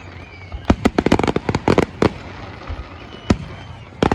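Fireworks going off in quick sharp bangs: a rapid string about a second in, a single bang near three seconds, and another rapid string starting near the end.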